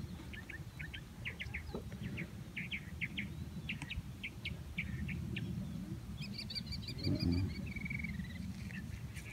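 Small birds chirping in quick runs of short, high chirps, joined later by higher calls and a brief trill, over a steady low rumble.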